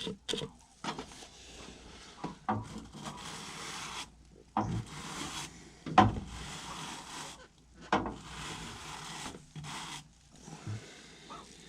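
Dirty HVAC coil being cleaned: a run of three long rubbing strokes, each about two seconds, with short clicks and knocks between them.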